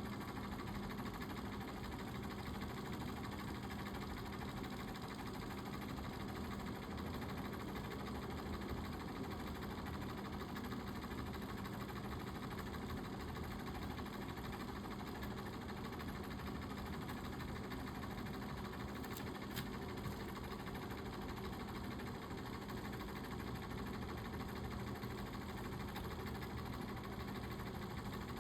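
Dirt bike engine running steadily at one even pitch, without revving.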